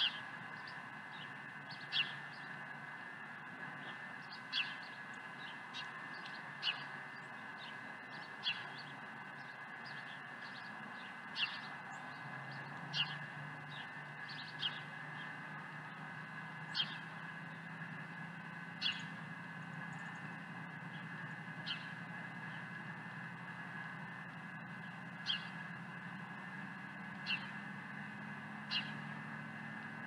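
A bird giving short, sharp single calls every two seconds or so, over a steady background hum. A low engine-like drone comes in about halfway.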